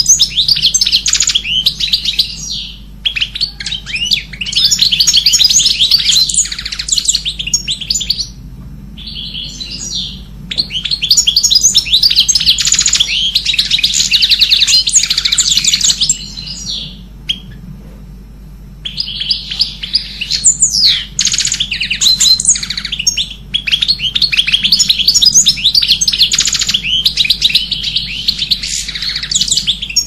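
Many small birds chirping and twittering rapidly and high-pitched, in long dense bouts broken by a few short pauses.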